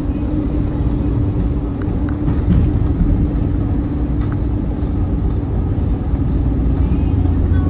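Semi-truck engine running steadily: a deep rumble with a constant hum.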